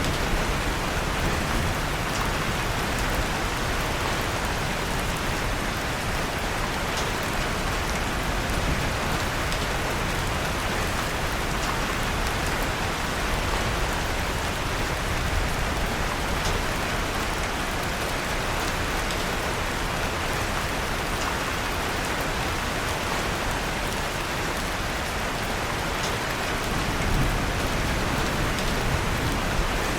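Steady rain falling, with small scattered crackles of a wood fire in a fireplace.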